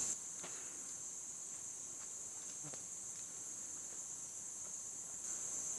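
Steady high-pitched chorus of insects, with a few faint clicks; it grows slightly louder near the end.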